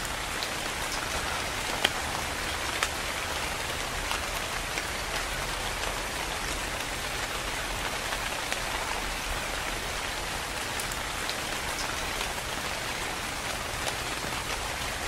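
Steady rain falling: an even hiss with scattered sharper drop taps, two of them louder about two and three seconds in.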